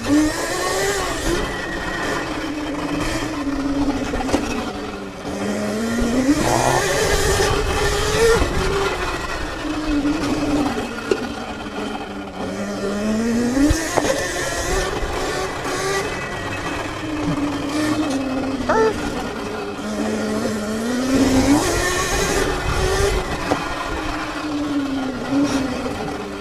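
Sur-Ron electric dirt bike's motor whining, its pitch rising and falling several times as the throttle is opened and closed, with bursts of hiss between the pitch changes.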